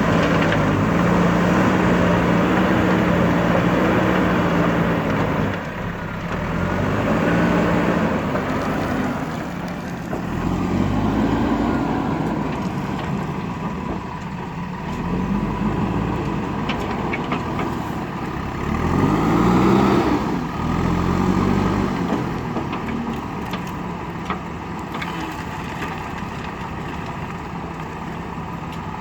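Backhoe loader's diesel engine running under load, its pitch rising and falling again and again as the machine works.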